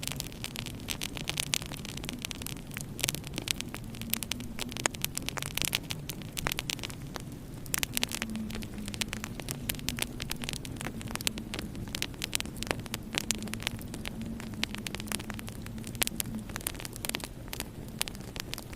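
Wood fire crackling in a fireplace, with frequent irregular sharp pops over a low steady hum.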